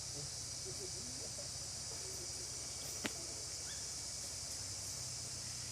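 Steady high-pitched chorus of insects, with one sharp click about three seconds in.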